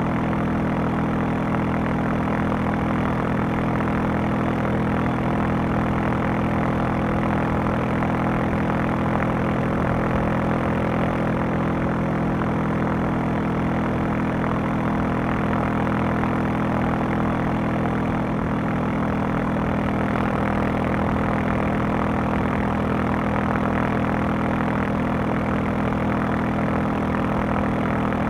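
Honda CB500X parallel-twin engine and exhaust running at a steady, unchanging engine speed, with no revving up or down.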